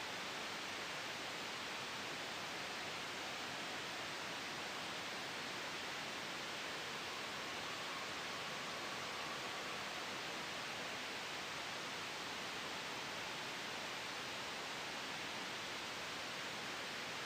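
Steady, even hiss of sleep-aid white noise blended with a soft wind ambience, holding the same level throughout with no sudden changes.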